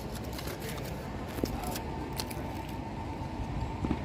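Steady low background rumble with a scatter of small clicks and rustles, thickest in the first couple of seconds, and a sharper tap about a second and a half in.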